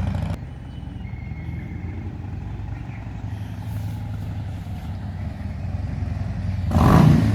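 Harley-Davidson Dyna Street Bob's V-twin engine heard at a distance as the motorcycle is ridden, a low uneven rumble that slowly grows. It turns loud near the end as the bike comes close.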